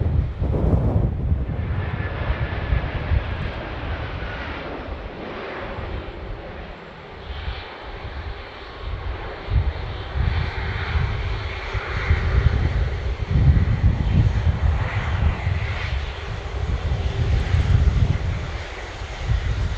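Jet airliner passing with its engines running: a heavy, uneven rumble, with a faint whine above it near the start and again in the middle.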